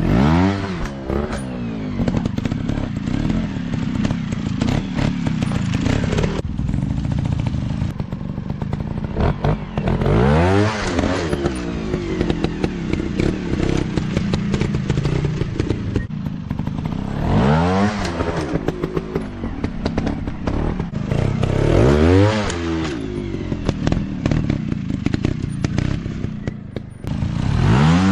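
Dirt bike engines revving hard and dropping back, about five sharp rev-ups with steady running between, with clattering and knocks over rough ground.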